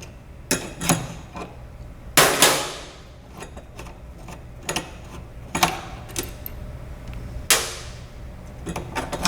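Scattered sharp metallic knocks and clanks of hand tools and hardware as a fryer's corner pulley assembly is taken off, the loudest a pair of knocks about two seconds in and another about seven and a half seconds in.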